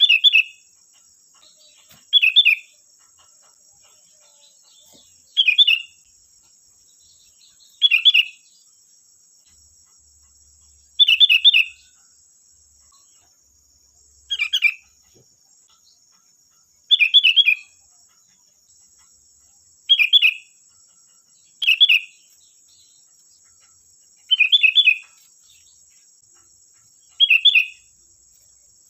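Sooty-headed bulbul (kutilang) singing: a short, bright whistled phrase repeated every two to three seconds, eleven times in all. A faint steady high-pitched hum runs underneath.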